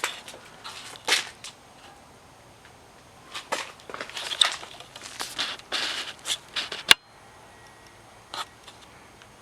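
A run of short scuffs and clicks, densest in the middle, ending with one sharp click about seven seconds in; after it only a faint steady hiss.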